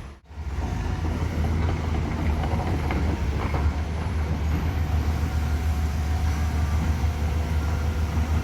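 Heavy vehicle engine, likely a truck, running with a steady low rumble; the sound drops out for a moment just after the start, then carries on unchanged.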